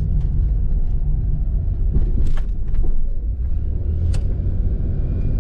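1997 Pontiac Firebird's engine running with a steady low rumble. Two short sharp clicks come about two and four seconds in.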